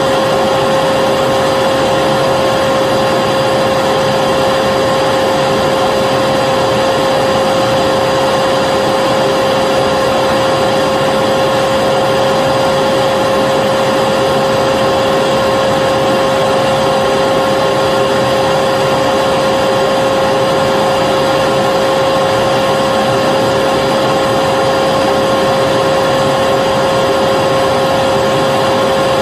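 Vacuum cleaner running steadily: an even rushing noise with a constant motor whine, unchanging throughout.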